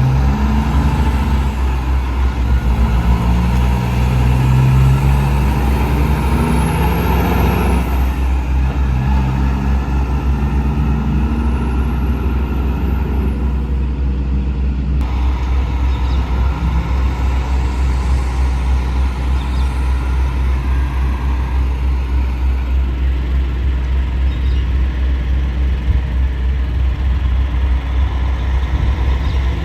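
Road traffic with heavy trucks passing: a diesel engine drone rises and falls over roughly the first half, over a steady low rumble of traffic.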